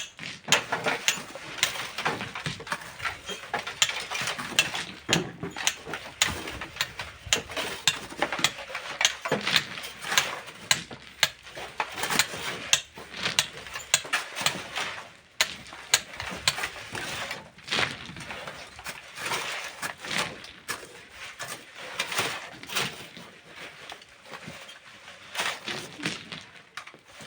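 Hand tools working stone and sand: an irregular run of sharp clicks and knocks, several a second, of metal on rock and gravel.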